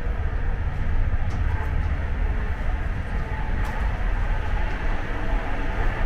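Steady low rumble of a German long-distance train running along the track, heard from inside the carriage, with a couple of faint clicks.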